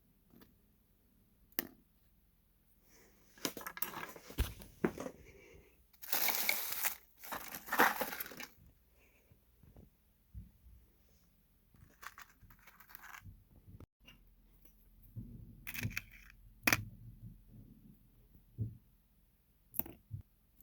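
Hands at work on an HO-scale model locomotive's couplers: scattered small clicks and taps of plastic parts and tools, with rustling, tearing sounds about 6 and 8 seconds in.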